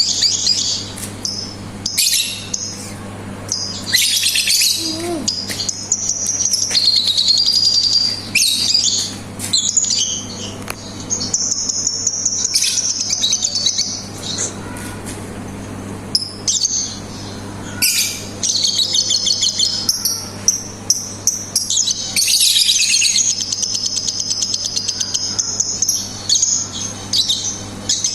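Lovebird singing in high-pitched chattering: long unbroken 'ngekek' trills lasting several seconds, mixed with runs of rapid, typing-like 'ngetik' clicks.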